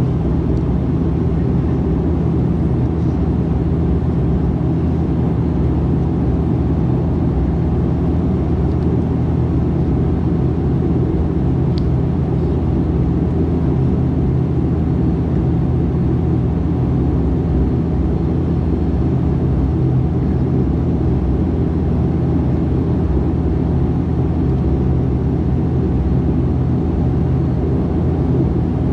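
Steady cabin drone of a Dash 8-400 turboprop, its Pratt & Whitney PW150A engines and propellers running at an even, unchanging power with a deep layered hum. A single faint tick is heard about twelve seconds in.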